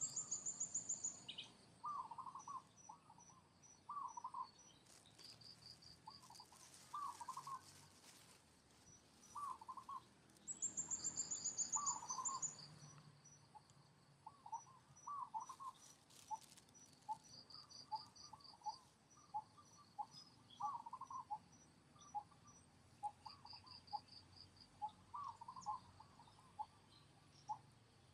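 Birds calling and insects chirping: short calls repeating every second or two, high falling trills at the start and again about ten seconds in, and a steady run of high pips.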